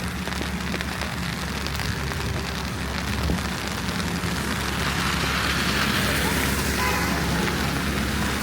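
Wet city street ambience during snowfall: a steady hiss with a low hum underneath, growing slightly louder about halfway through.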